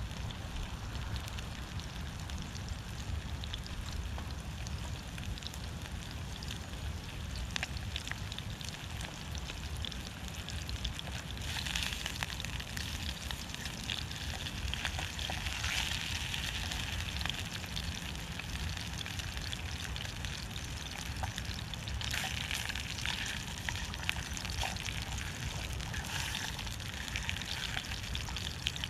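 Small wood fire crackling in a Firebox wood-burning stove, with scattered sharp pops and two longer spells of louder hissing.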